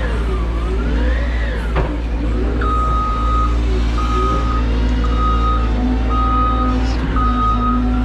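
CAT 320 GC excavator's diesel engine and hydraulics running under load, with a whine that rises and falls in pitch and a single sharp knock about two seconds in. From about two and a half seconds a backup alarm beeps steadily, about once a second.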